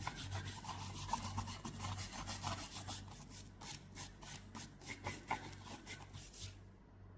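Rapid back-and-forth hand scrubbing or sanding strokes on a rusted metal gun part, several strokes a second, stopping about six and a half seconds in.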